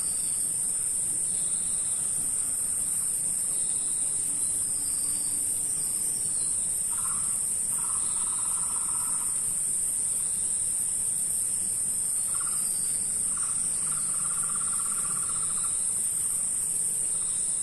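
Tropical rainforest insects droning steadily at a high pitch. A lower, rapidly pulsing call comes in twice, about seven seconds in and again about twelve seconds in, each lasting two to three seconds.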